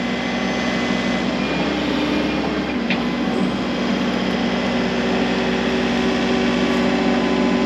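The engine of a piece of heavy machinery, running steadily under load and growing slowly louder.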